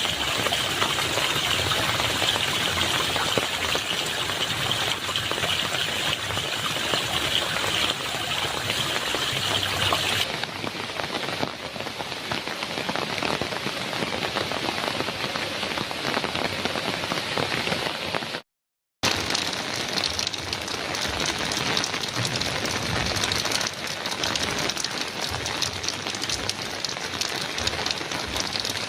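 Heavy rain drumming steadily on a metal roof. The rain's character changes about ten seconds in, and the sound cuts out completely for about half a second around two-thirds of the way through before the rain resumes.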